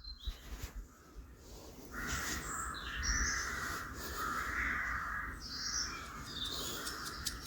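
Birds calling: a run of long, harsh calls with a few higher chirps above them, starting about two seconds in.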